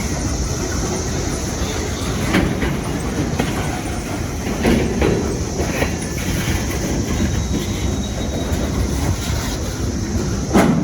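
Freight cars of a CSX manifest train rolling past with a steady rumble, the wheels clacking and knocking over the rail joints, loudest near the end. A steady high chorus of periodical cicadas sounds underneath.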